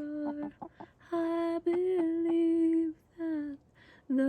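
A female voice humming a wordless tune in long held notes, with short breaks between phrases.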